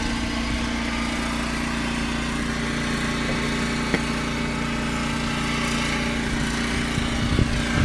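Small engine of a snowblower running steadily with an even hum, and a single short click about four seconds in.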